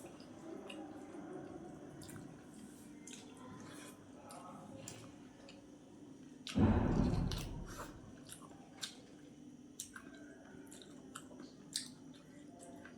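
A person chewing a mouthful of rice and vegetable curry close to the microphone, with soft wet mouth clicks. One much louder noise lasting about a second comes about six and a half seconds in.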